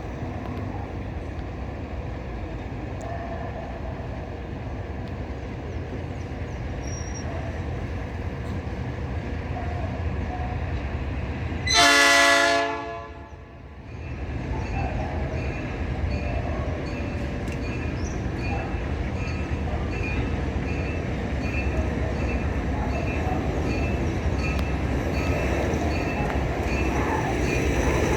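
Three GE U20C diesel-electric locomotives hauling a loaded train, their diesel engines rumbling steadily under load. About twelve seconds in, the locomotive horn sounds one blast of about a second.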